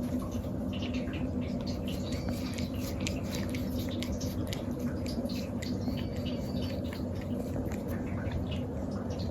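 A cat making faint, high, squeaky noises, about three short squeaks, over a steady low hum and scattered small clicks.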